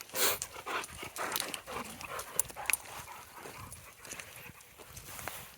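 A dog panting and moving about close by, with irregular rustling steps.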